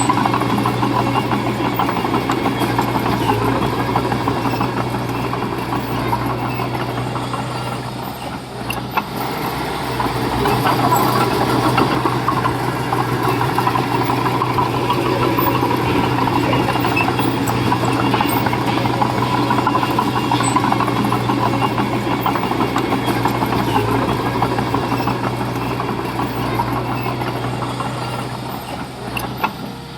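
Diesel engine of a Komatsu mini bulldozer running steadily. It eases briefly about eight seconds in and again near the end.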